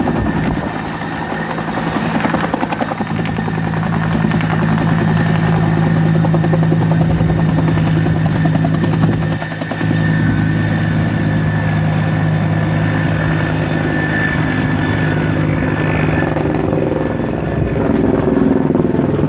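Firefighting helicopter flying close by, its rotor and engine running steadily and loudly; the sound dips briefly about nine seconds in.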